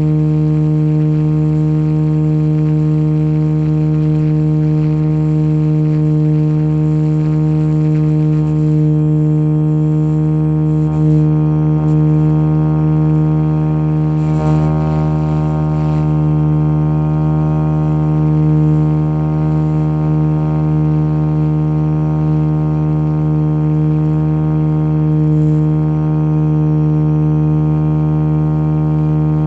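Radio-controlled Jet Ranger model helicopter running steadily, a loud unbroken drone of one even pitch with many overtones.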